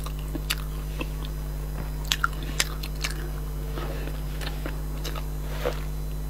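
Close-up chewing of a soft strawberry pork-floss cake: scattered wet mouth clicks and smacks, over a steady low electrical hum.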